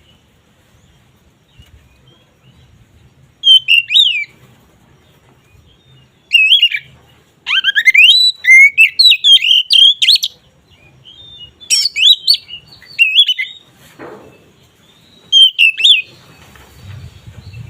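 Oriental magpie-robin (kacer) singing in full, open song: loud bursts of whistled, sweeping notes with quiet gaps between, the longest phrase running about three seconds near the middle.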